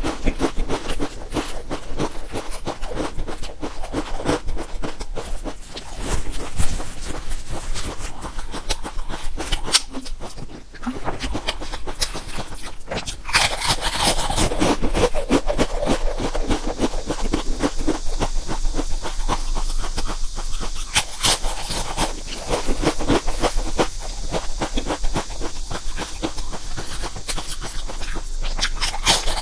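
Potato crisps being bitten and chewed: a dense run of quick, crisp crunches.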